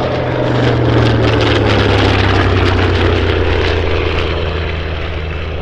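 A piston-engined propeller warbird passing close overhead, loud, its engine note dropping in pitch as it goes by and then fading slowly.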